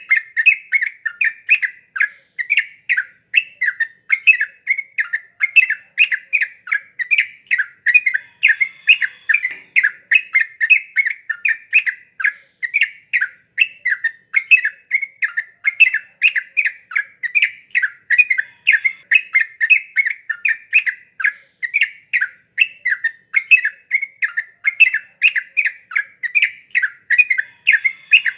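Yellow-vented bulbul (trucuk) singing nonstop in full song: short, sharp call notes repeated about two to three times a second without a pause.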